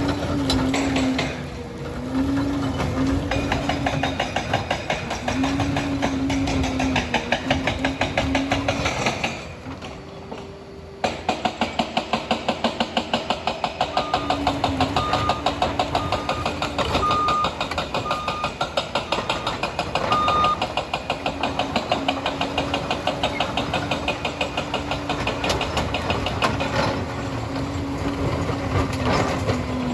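Liebherr 746 crawler bulldozer working: its diesel engine runs steadily under a dense, rapid clatter. The engine drops away briefly about a third of the way in, then comes straight back. Midway, its reversing alarm beeps about seven times, roughly once a second, as the machine backs up.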